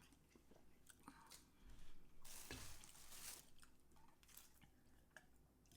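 Faint close-up eating sounds: chewing with small wet clicks and smacks, and a louder noisy stretch of about a second starting a little over two seconds in.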